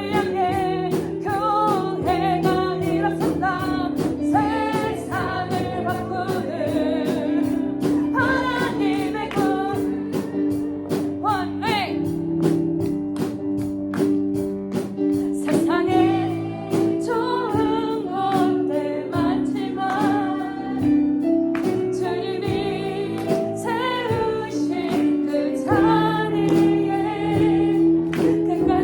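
Children's Christian worship song: a group of voices singing together over an instrumental backing with a steady, driving beat.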